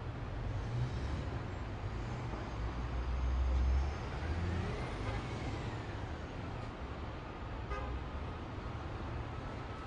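Vehicle engine rumble, loudest a little before the middle, with a faint horn-like tone that rises and then falls in pitch.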